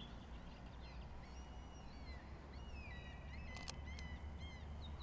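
Small birds chirping and twittering repeatedly over a faint low rumble of outdoor background noise, with a couple of faint clicks near the end.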